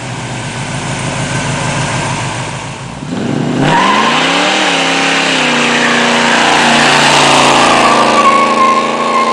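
1964 Chevy C10 pickup's engine running at a low, lumpy idle, then revving up about three seconds in, dipping briefly and holding steady at higher revs.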